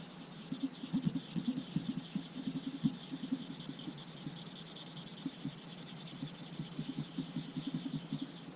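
Irregular light taps and scratchy rubbing of hand work on small camera parts, denser in the first few seconds and again near the end.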